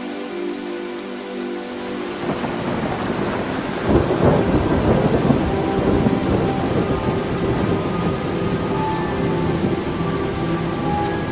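Steady rain falling. About two seconds in, a rumble of thunder builds, is loudest around four seconds, then rolls on under the rain.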